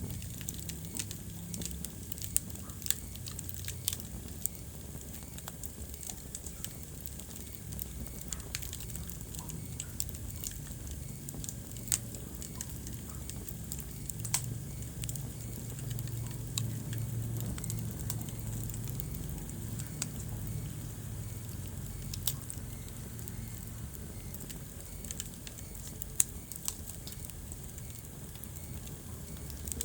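Wood fire burning in a fireplace: a steady low rumble of flames with irregular crackling and a few sharper, louder pops scattered through.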